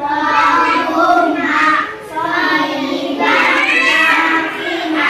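A child singing a melodic chant in phrases of about two seconds, the Indonesian prayer for rain.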